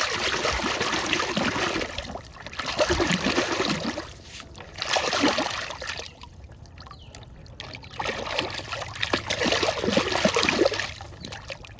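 Water splashing and trickling as a muddy toy dump truck is washed by hand, coming in several bursts with a quieter pause a little past the middle.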